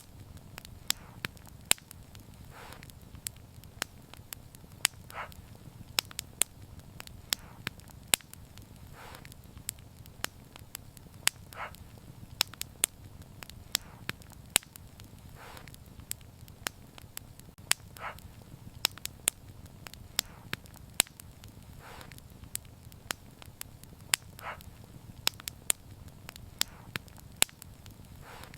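Wood fire crackling: sharp pops at irregular moments over a low steady rumble, with softer puffs every two to four seconds.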